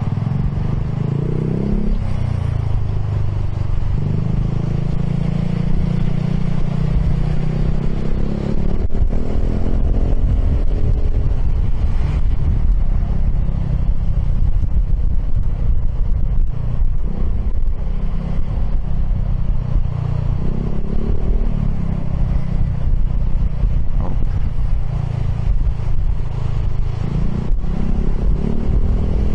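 Piaggio X10 maxi-scooter engine running while riding, its pitch rising several times as the throttle opens, under a steady rumble of wind on the microphone.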